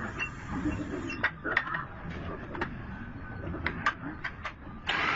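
Scattered sharp clicks and light knocks, about eight of them, over a steady background noise, with a louder burst of noise near the end.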